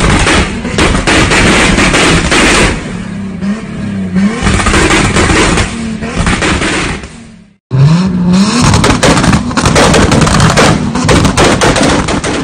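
Toyota Supra (A80) engine revved hard, the pitch shooting up in quick blips, with rapid pops and crackles from the exhaust. The sound cuts out for a moment a little past halfway, then resumes with more revving.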